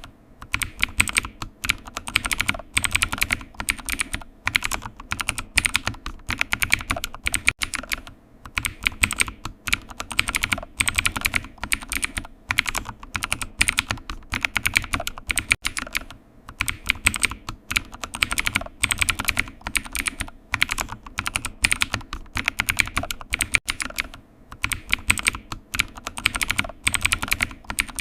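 Computer keyboard typing: fast, irregular key clicks in runs, with brief pauses between bursts.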